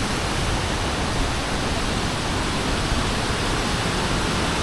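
Waterfall rushing steadily, its flow swollen and churning after heavy rain.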